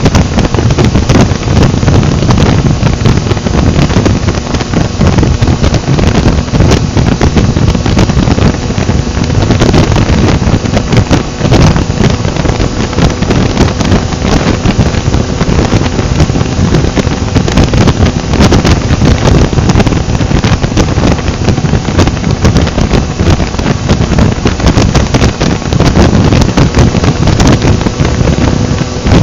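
Heavy wind buffeting on the microphone of a moving motorcycle, a 2023 Yamaha XSR900, with the engine's steady running tone underneath.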